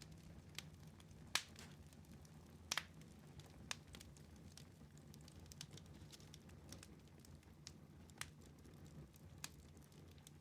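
Wood fire burning in a fireplace: faint crackling with sharp, irregular pops, the loudest about a second and a half in and near three seconds in, over a low steady rumble.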